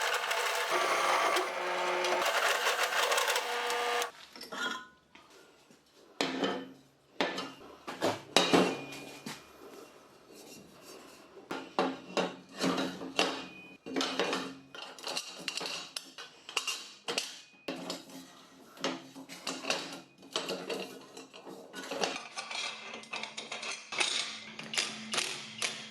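Workshop sounds: a dense, steady machine noise that cuts off about four seconds in, followed by irregular knocks, clinks and scrapes of metal parts and tools being handled.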